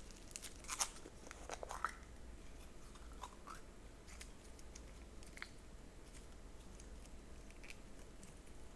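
Slime being played with by hand: scattered sticky clicks and small crackles. A cluster of louder ones falls in the first two seconds, then fainter, sparser clicks follow.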